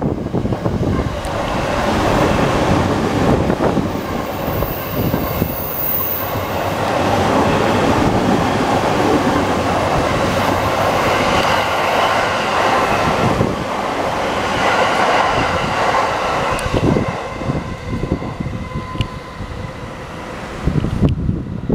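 Fifteen-car JR East E231-series suburban electric train passing through a station at speed: a long, loud rush of wheels on rail with clattering over the joints. It eases off near the end as the train draws away.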